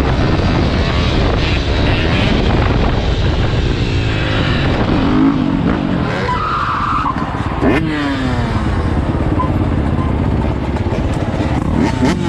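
Dirt bike engines revving and riding past, several rising and falling in pitch; a couple of them drop in pitch as they go by.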